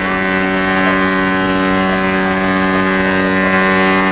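Ship's horn sounding one long, steady blast at a single low pitch.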